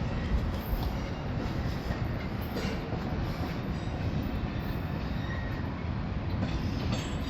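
Amtrak passenger train rolling past, a steady noise of wheels on the rails with faint scattered clicks.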